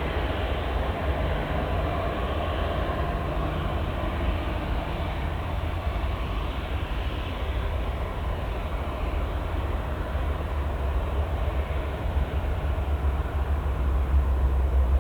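Steady low rumble of jet aircraft engines at an airport, with a haze of noise above it and no sudden events.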